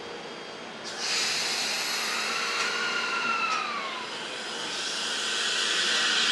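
Electric train at a station platform: a hiss of air starts suddenly about a second in, and a high whine falls in pitch and fades about four seconds in. A hiss then builds toward the end.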